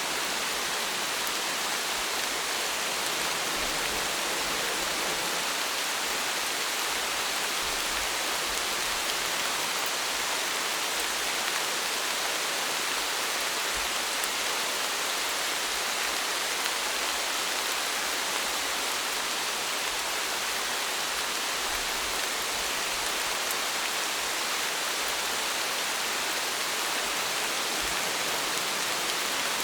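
Steady rain falling, an even hiss of dense drops with no let-up.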